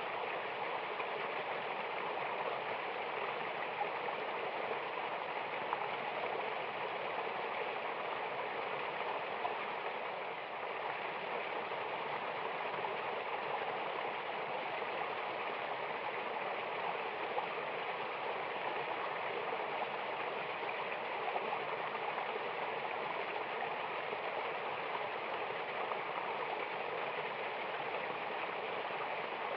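Mountain river or waterfall rushing steadily: an even, unbroken wash of flowing water.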